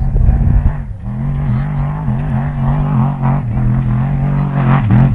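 Off-road race truck engine running hard, its pitch wavering up and down, with a brief dip about a second in and a sharp rise near the end.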